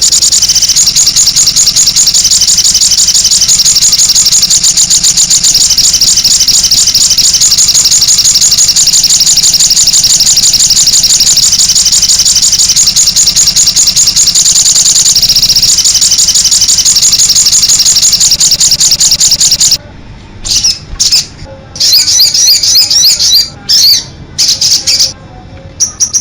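Sogok ontong (little spiderhunter) singing: a loud, very rapid, high-pitched trill held for about twenty seconds, with a brief break about fifteen seconds in. After that it gives shorter separate bursts of shrill calls.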